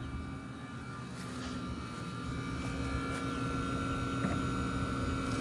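Trane XL heat pump outdoor unit running with a steady mechanical hum; a low tone and a higher tone come in about halfway through and hold steady.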